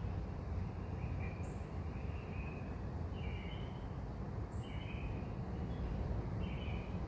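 Birds giving short, repeated chirping calls about every one to two seconds over a steady low rumble.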